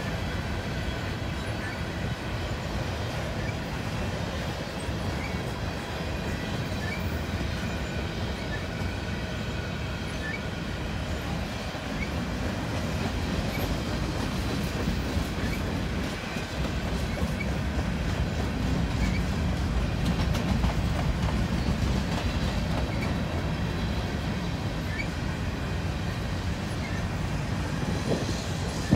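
Loaded freight train cars (covered hoppers and tank cars) rolling past close by: a steady rumble of steel wheels on rail with clickety-clack over the rail joints and a faint high squeal from the wheels. A few sharp knocks near the end.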